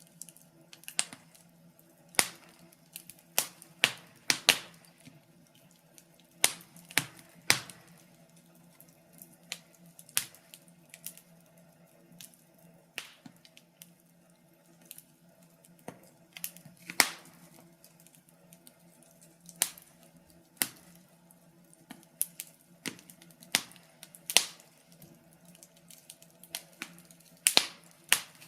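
Wood fire crackling in a fireplace: irregular sharp pops and snaps from the burning logs, some single and some in quick pairs, over a faint steady hum.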